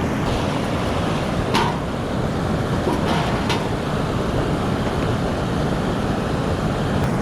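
Fast-flowing mountain river rushing steadily, with a few light clicks about a second and a half, three and three and a half seconds in.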